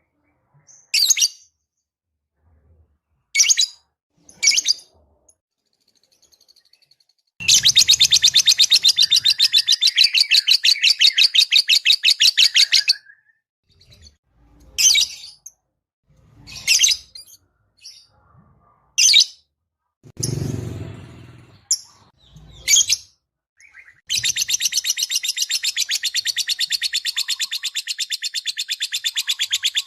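Lovebird calling: short, sharp, high chirps, and twice a long, rapid, chattering trill of evenly repeated notes, one lasting about five seconds from a quarter of the way in and another beginning near the end. A brief, lower, duller sound comes a little past two-thirds of the way through.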